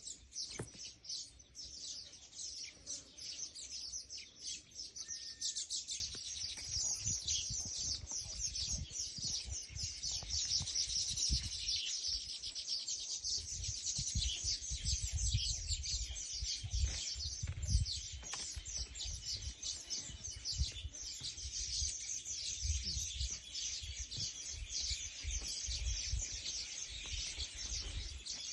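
Small birds chirping rapidly and continuously in a dense, high-pitched chorus. From about six seconds in, an uneven low rumble runs underneath.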